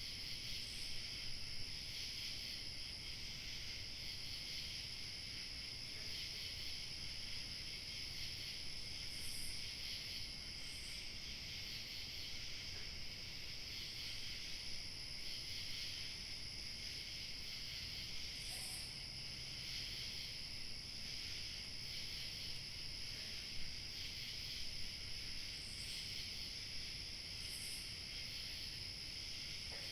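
Evening chorus of crickets chirping, a steady dense high shimmer, with a thinner, higher trill fading in and out above it.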